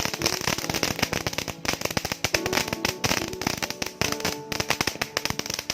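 Firecrackers going off in a dense, rapid string of sharp pops and cracks, with music playing underneath.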